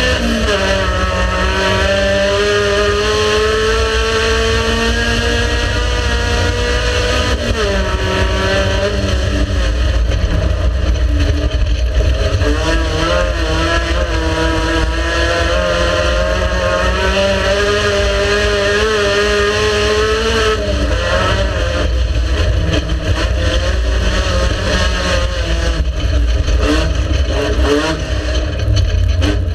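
Race car engine running hard under load, its pitch climbing slowly and then dropping sharply with gear changes or lifts, twice, over a steady low rumble.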